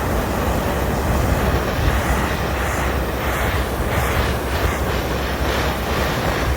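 Loud, steady seaside wind and surf noise. The wind is buffeting the microphone, so it is heaviest in the low end.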